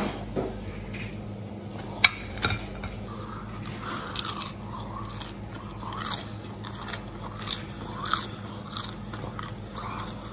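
A man biting and chewing crispy roasted pork hock skin: a sharp crunch about two seconds in, then a run of crunchy chews.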